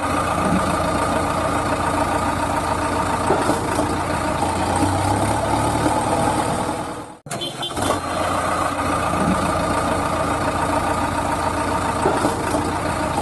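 A small engine or motor running steadily. It cuts out briefly about seven seconds in, and the same stretch of sound then plays again.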